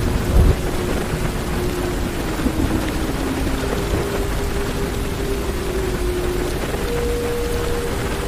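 Heavy rain drumming on a car's roof and windows, heard from inside the cabin, with low thunder rumbling under it; the rumble swells briefly about half a second in.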